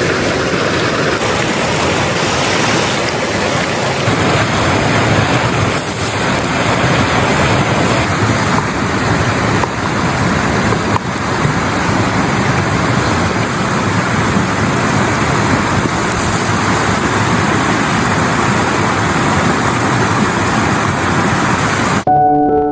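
A loud, steady rushing noise. It cuts off about 22 seconds in, and sustained ringing music notes, like a singing bowl, begin.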